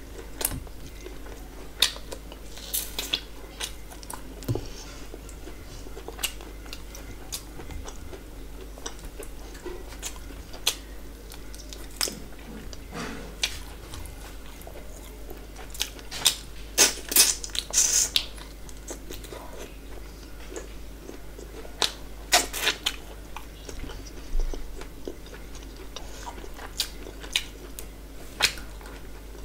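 Close-miked eating sounds: a person chewing mouthfuls of rice and fried fish, with frequent wet lip smacks and sharp crunchy clicks scattered throughout, coming thickest a little past halfway and again a few seconds later.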